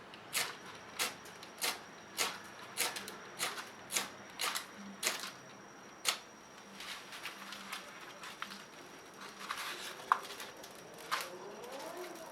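A blade scraping along a magnesium fire starter in short repeated strokes, about one every half second for the first six seconds, then a few scattered strokes.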